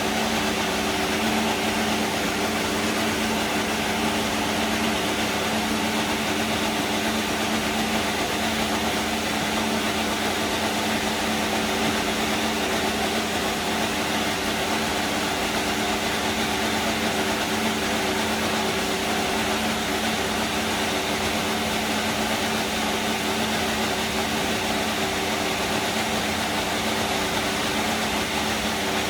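Haas VF-24 Formula 1 car's 1.6-litre turbocharged Ferrari V6 idling steadily, at a constant pitch and level throughout.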